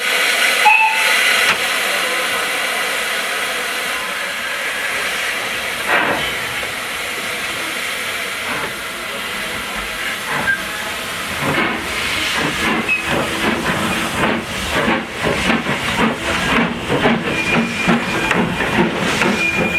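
Industrial tank steam locomotive hissing steadily as steam escapes, then, a little over halfway through, a run of regular exhaust beats as it starts to work.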